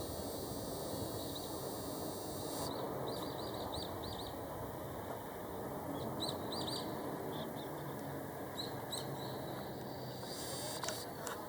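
Small birds chirping in quick runs of short, high calls over a steady low background rumble.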